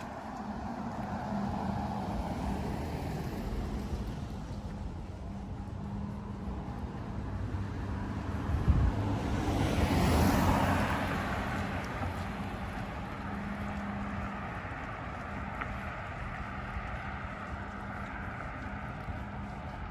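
Road traffic running steadily, with one vehicle passing close by about halfway through, its sound swelling and then fading. A short thump comes just before the pass.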